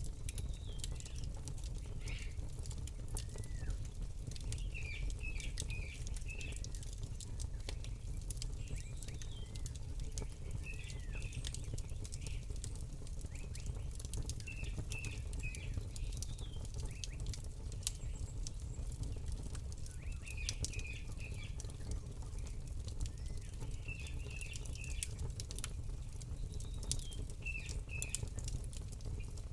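Campfire crackling, with scattered sharp pops over a low steady rumble, while small birds chirp in short bursts every few seconds.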